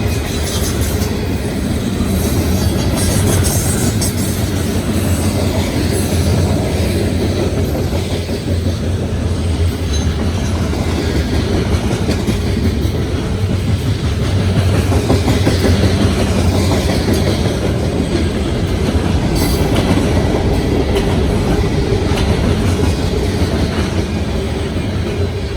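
Freight trains rolling past close by at speed, a steady loud rumble of railcars with the wheels clacking over the rail joints.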